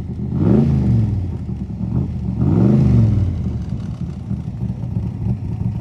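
Car engine revved twice, the pitch rising and falling each time, then running at a steady idle.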